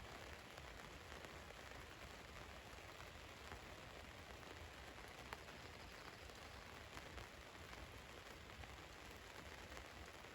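Faint, steady rain falling on a van, with a few louder single drops ticking now and then.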